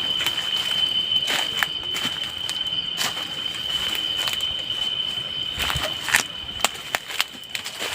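Footsteps through grass and leaf litter, an irregular run of rustles and snapping crunches that turn sharper and louder near the end. Over them runs a steady, high-pitched trill of night insects.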